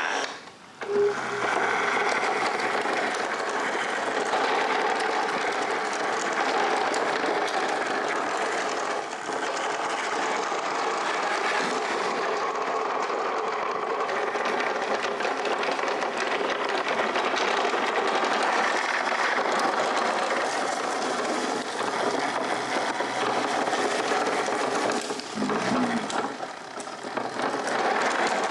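Small electric motors and gearing of remote-control construction machines (a tracked excavator and bulldozer) whirring steadily as they work in mud. The whir drops briefly about half a second in and again near the end.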